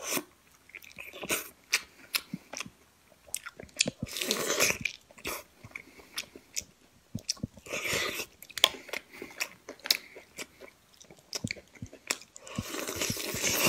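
Close-up mouth sounds of a man biting into and chewing a boiled maodan (partly developed chicken egg): many sharp wet clicks and crunches, with longer noisy stretches about four and eight seconds in and near the end.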